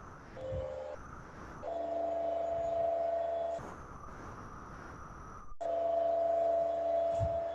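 An induction forge heating a steel bar gives off a steady electronic whine. A short burst comes about half a second in. The tone then holds for about two seconds, stops, and comes back near the end.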